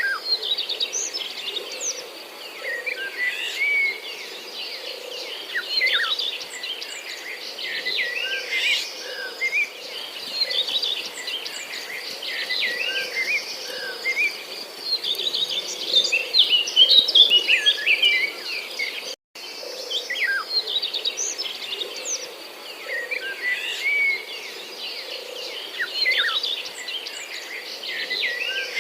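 Many birds chirping and calling in quick, overlapping phrases over a steady high insect drone. The sound cuts out for an instant about two-thirds of the way through, then the same mix carries on.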